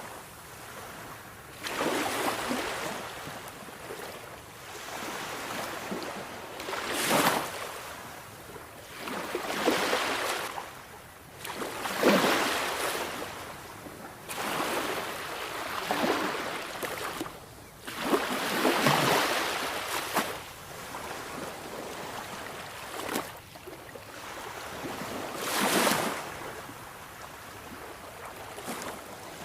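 Sea waves breaking and washing on the shore, a steady hiss of surf with a louder wave crashing every few seconds.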